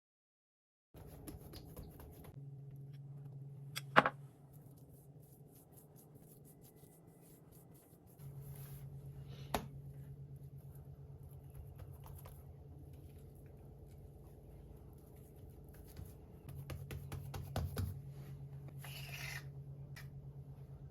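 Kitchen handling sounds: a few sharp knocks or clatters, the loudest about four seconds in, over a low steady hum that cuts in and out, with a short hiss near the end.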